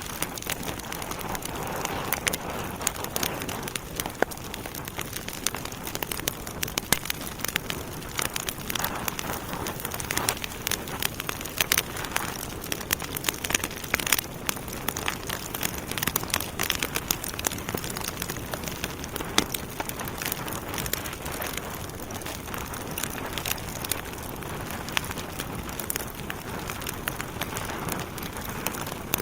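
Logs burning in a fireplace, crackling steadily: a soft rush of flame under many irregular sharp pops and snaps.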